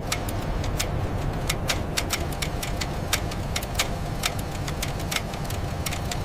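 Factory machinery running with a steady low hum, overlaid by frequent irregular sharp clicks and clacks, several a second.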